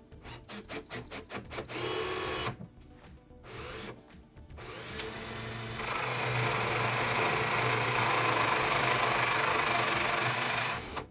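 Power drill run in quick short trigger pulses, about four or five a second, then in a couple of brief runs, then held on steadily for about six seconds. It gets louder about halfway through and stops abruptly.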